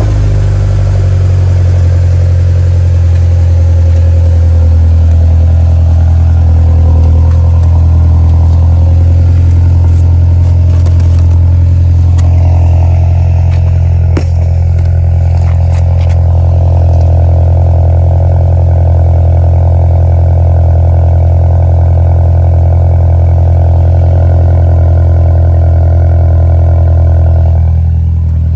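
2013 Mini Cooper S's turbocharged 1.6-litre four-cylinder idling steadily through a Flowmaster 10 muffler just after a semi-cold start. It drops slightly near the end, and there is a single click about halfway through.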